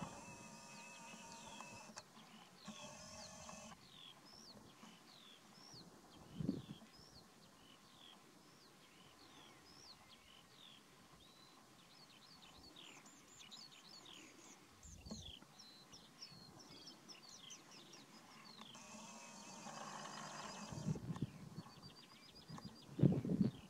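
Small birds chirping over and over, with short, quick down-slurred notes. A buzzing rasp sounds in the first couple of seconds and again about 19 seconds in, and a few dull thumps come through, the loudest near the end.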